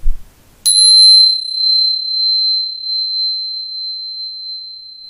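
A small bell struck once about half a second in, ringing one high, clear tone that fades slowly over about four seconds with a slight waver.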